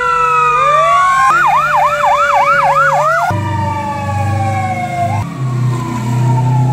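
Fire engine siren: a slow falling wail, switching abruptly to a fast yelp of about three cycles a second, then back to slow falling wails, with a low engine rumble underneath.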